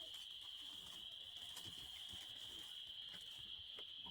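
Faint, steady high-pitched chorus of many frogs calling together, an unbroken trill with no gaps.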